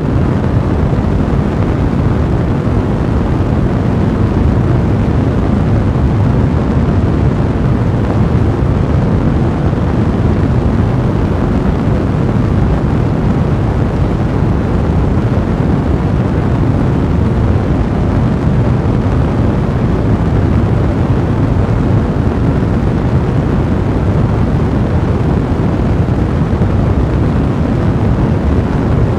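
Fire burning in a fireplace: a steady, loud, low rushing blaze noise, with no single crackles standing out.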